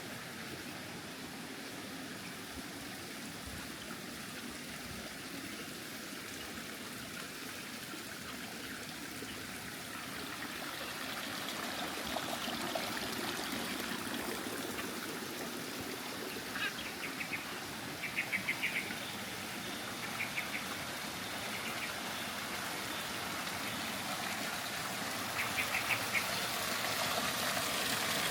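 Steady running water that grows louder from about a third of the way in, with a few short, rapid chirping calls over it in the second half.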